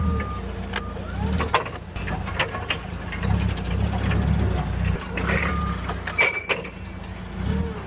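Truck engine running at low speed, its rumble rising and falling, with scattered rattles and clicks.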